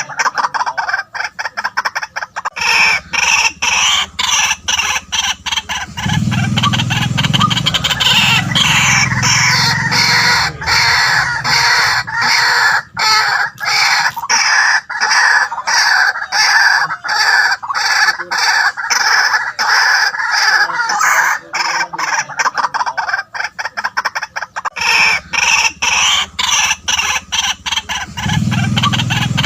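White-breasted waterhen calling: a long, unbroken run of rapid, harsh repeated notes, with a lower sound joining in about six seconds in and again near the end.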